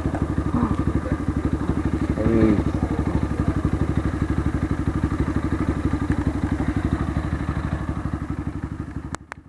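Motorstar Xplorer Z200S motorcycle engine idling with an even, steady beat, fading away near the end, followed by two sharp clicks.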